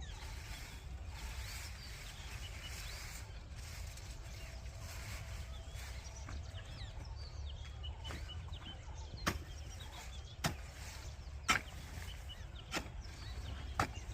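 A digging tool striking soil in separate strokes, about one a second in the second half, while ridges are earthed up around pointed gourd plants. Birds chirp faintly over a low steady rumble of wind.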